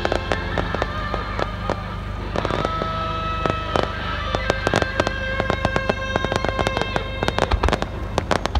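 Creative fireworks display: aerial shells bursting with repeated bangs and crackles over music, the bursts coming thicker and faster near the end.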